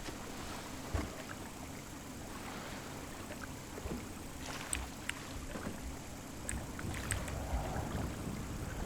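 Water lapping and sloshing around a small boat, with scattered light clicks and knocks.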